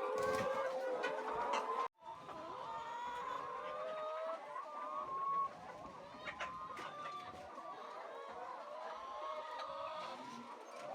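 A flock of chickens clucking and calling over one another, with a sudden break in the sound about two seconds in.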